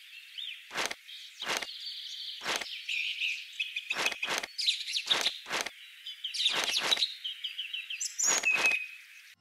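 Birds chirping throughout, with about ten sharp taps of small objects being set down on a hard board, several in quick pairs.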